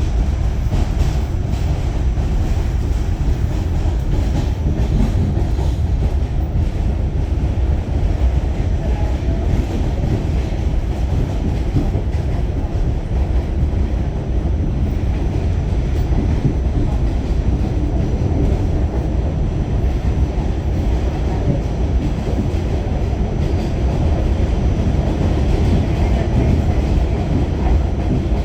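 Pullman Standard R46 subway train running along the track: a steady low rumble of wheels and traction motors with no pause.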